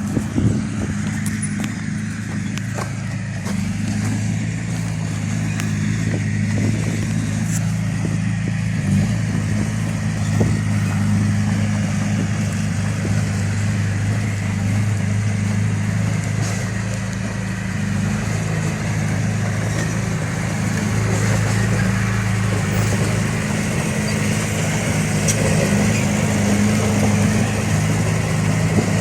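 Heavy diesel engine running steadily at a constant speed, with a few brief knocks or clanks, one just after the start and another about ten seconds in.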